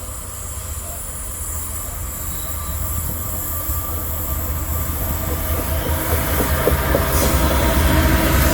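Freight train approaching, its low rumble growing steadily louder, with a high steady squeal from the wheels on the rails.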